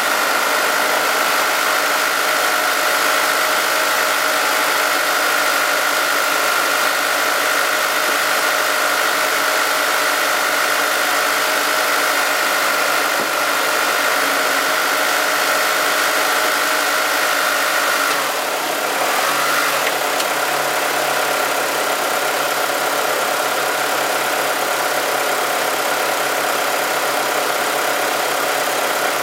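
The 4G63 turbocharged inline-four of a 1995 Mitsubishi Chariot Resort Runner GT idling steadily, with a steady high-pitched whine over the engine note. About two-thirds of the way through, the note dips briefly and then settles again.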